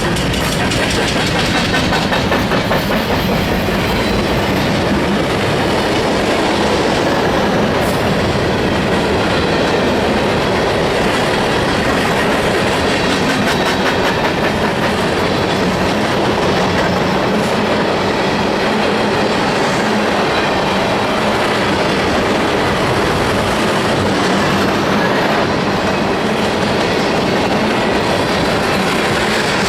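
Cars of a CSX mixed freight train rolling past, their wheels clicking steadily over the rail joints amid a continuous loud rumble.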